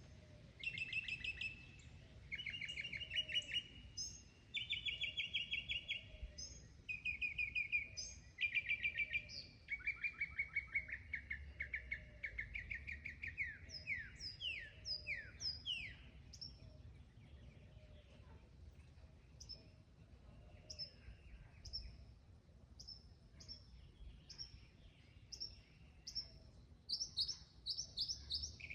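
Mockingbird singing a string of varied phrases, repeating each several times before switching. It starts with buzzy trilled phrases, moves to fast runs and downward-slurred notes, then to single short high notes spaced about a second apart, and ends with a quick burst of high notes.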